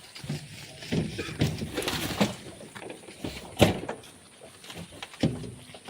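Shovel work in sand and rock: irregular scrapes and knocks, busiest in the first half, with one sharp knock about three and a half seconds in.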